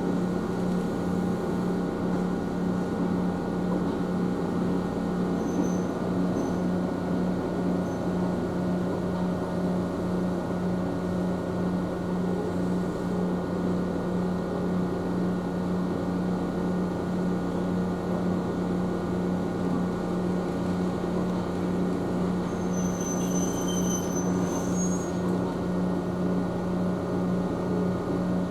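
Steady electric hum of an Ohmi Railway electric train standing at a station with its doors open, its onboard equipment running while the traction motors are idle, heard from inside the car. A few brief faint high-pitched tones sound over it twice.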